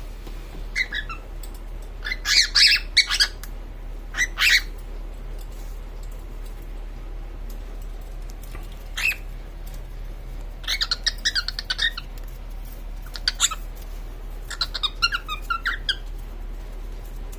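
Female cockatiel mating call: short chirping and squawking calls in several clusters a few seconds apart, with quiet gaps between.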